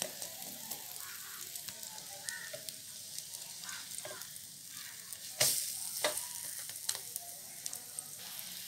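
Batter-dipped bread slices sizzling in butter on a flat nonstick pan over a low flame. A few sharp taps of a spatula against the pan sound over the steady sizzle; the loudest comes about five seconds in.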